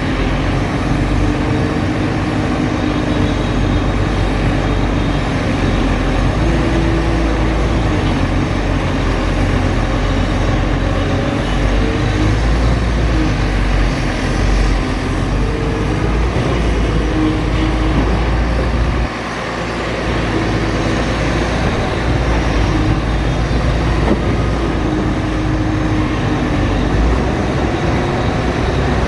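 Excavator's diesel engine running steadily under load, its pitch wandering up and down as the hydraulics work. The level dips briefly about two-thirds through, then recovers.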